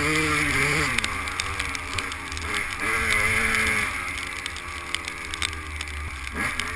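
Two-stroke 250cc motocross bike engine running under throttle as it is ridden, its pitch rising and falling: strong through the first second, easing off and running lower for several seconds, then revving up sharply near the end.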